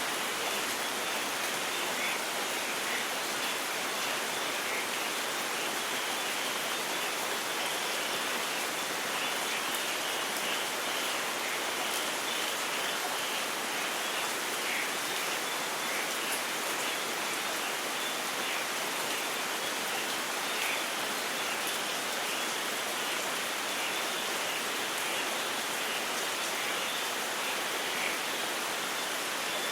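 Steady rain, an even hiss with scattered drops ticking through it.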